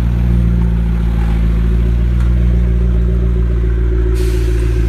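A modified sports car's engine idling with a steady low rumble. A hissing rush comes in suddenly just before the end.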